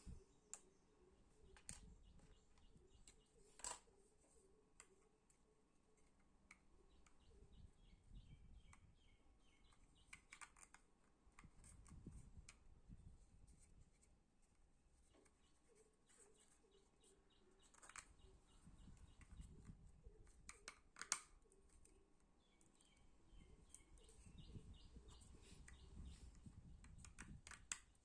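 Faint scattered clicks and taps of 3D-printed plastic parts being handled and fitted together, the sharpest about three-quarters of the way through. Faint bird chirping runs behind.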